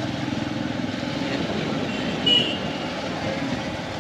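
Motorcycle engine running steadily under way, with road and wind noise. A short, high-pitched beep sounds a little past two seconds in.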